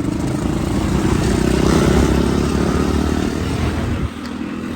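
Motorcycle engine running steadily, its low sound dropping away about four seconds in.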